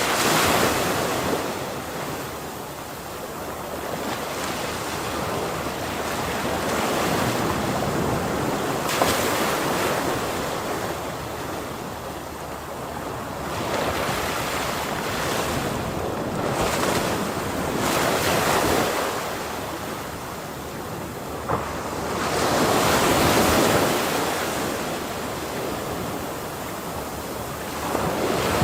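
Ocean waves breaking and washing up on a shore, the surf swelling and falling back every few seconds, with wind noise on the microphone.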